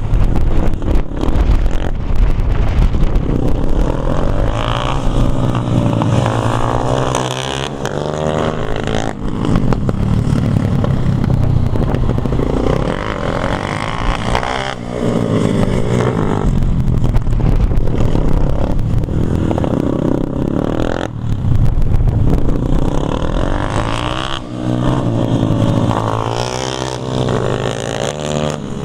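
Dirt bike engine running hard, its pitch rising and falling over and over as the rider accelerates, shifts and backs off the throttle.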